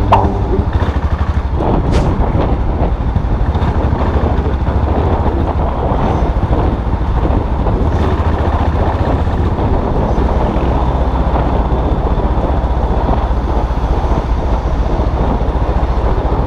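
Custom motorcycle's engine running steadily under way, its low rumble continuous throughout.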